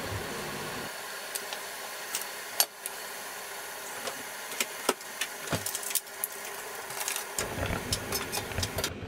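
Chopped garlic and chili sizzling gently in olive oil in a frying pan over medium heat: a steady hiss with scattered crackles and pops.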